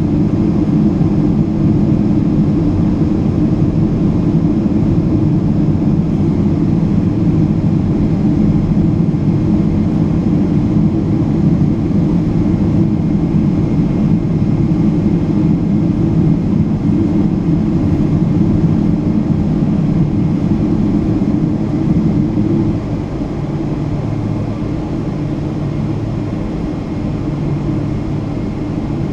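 Boeing 777-200's jet engines running: a loud, steady rumble that eases a little about 23 seconds in.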